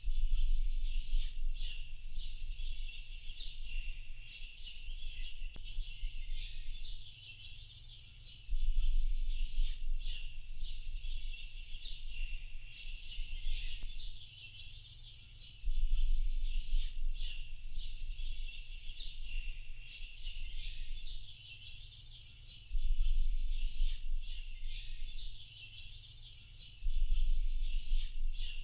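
A dense chorus of many birds chirping and calling, with a low rumble that swells in and fades about every seven seconds.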